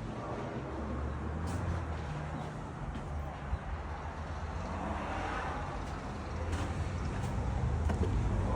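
Motor vehicle running: a steady low engine rumble that grows a little louder near the end.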